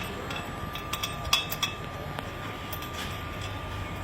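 Scattered light clicks and taps of handling work, bunched together a little over a second in, over a steady low hum and a faint constant high tone.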